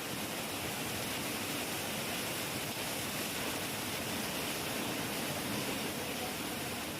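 Heavy rain falling, a steady, even hiss with no thunder.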